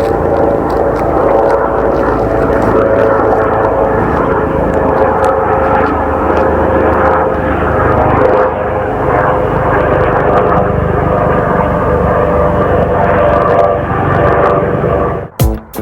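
Aircraft engines running loud and steady with a whining tone, then cut off abruptly near the end as guitar music begins.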